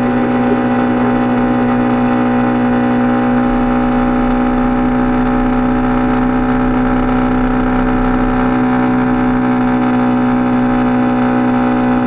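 Yamaha Ténéré 250's single-cylinder engine running steadily at highway cruising speed, holding one even pitch.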